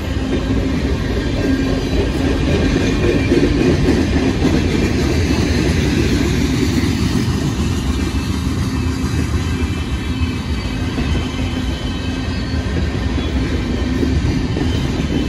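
Freight train tank cars rolling past: a steady rumble of steel wheels on the rails, with a low hum running through it.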